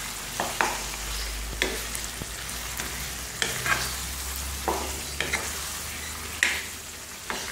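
Mutton and spice masala sizzling as it is fried (bhuna) in a non-stick karahi, with a spatula stirring it and striking and scraping against the pan in a string of sharp, irregular knocks.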